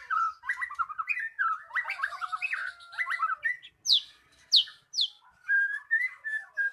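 White-rumped shama (murai batu) singing a fast, varied song of chattering whistled notes. Three sharp high whistles sweep steeply downward about four to five seconds in, followed by a warbling phrase.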